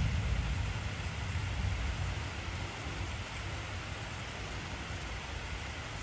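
Heavy, steady rain, with the low rumble of a thunderclap dying away over the first couple of seconds.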